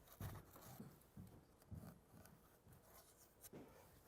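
Near silence with a few faint, scattered taps and rubs of small objects being handled and set in place.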